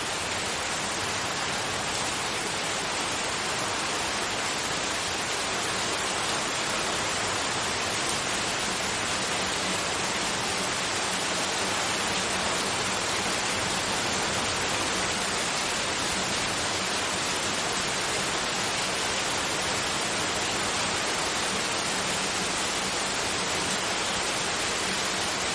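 Continuous white noise: an even, unchanging hiss.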